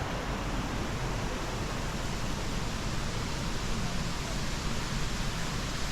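Steady rushing of fast mountain-stream water, an even hiss with no breaks.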